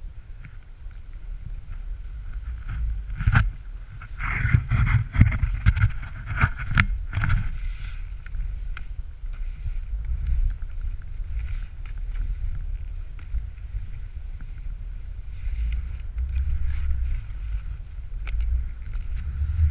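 Skis running down a snowy slope, with wind buffeting the microphone as a steady low rumble. It gets louder and rougher about four seconds in, for a few seconds.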